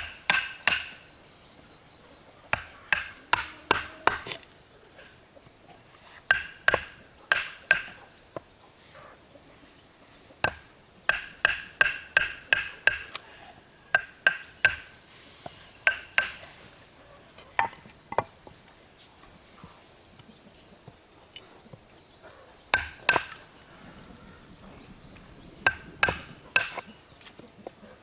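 A hammer driving nails into wood in runs of several quick blows, about two a second, each blow with a short ringing note, with pauses between the runs. A steady high drone of insects runs underneath.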